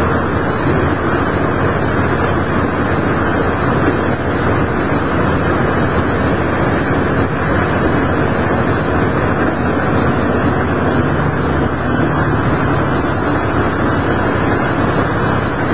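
Cabin noise inside a Kamioka Railway diesel railcar under way: a steady engine drone under the rumble of wheels on the rails.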